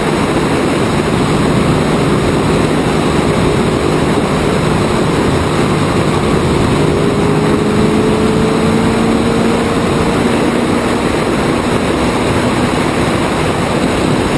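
Open-wheel Indy-style race car at speed on the oval at part throttle: a loud, steady rush of wind over the onboard microphone, with the engine note faint beneath it and rising slowly partway through.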